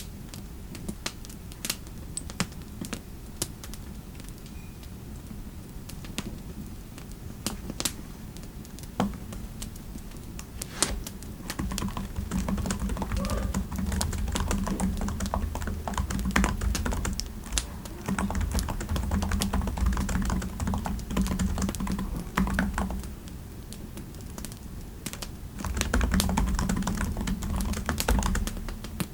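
Typing on a computer keyboard: a few scattered keystrokes at first, then steady runs of typing from about twelve seconds in, a short pause, and another run near the end.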